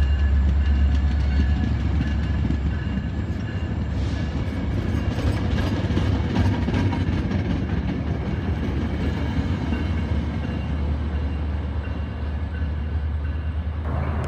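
Metrolink bilevel commuter train rolling past close by: a steady low rumble of wheels on rail, with a run of clacks from the wheels over the track about four to seven seconds in.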